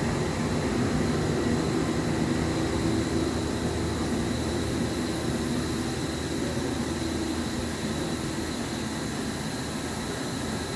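Steady hum of powered-up shop machinery running idle, with a faint high whine held throughout and no strokes or impacts.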